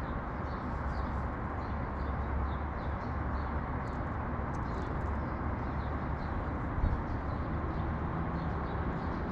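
Sparrows chirping in short, repeated high chirps over a steady rumble of city traffic, with a single brief knock near the end.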